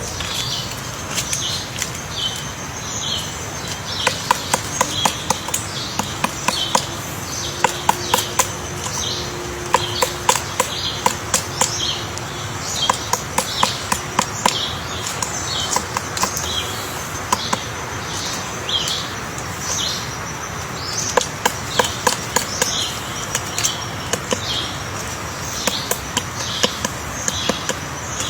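Woodpecker chiseling wood to dig out its nest hole: sharp taps in irregular bursts. Behind them a short bird chirp repeats about every half second, over a steady high whine.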